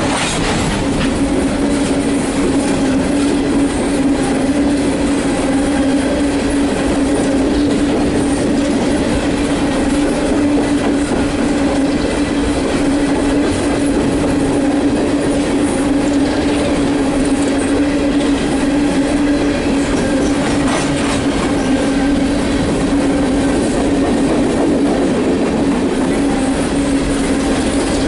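Empty coal hopper cars of a long freight train rolling steadily past, wheels clicking over the rail joints, with a steady droning tone underneath.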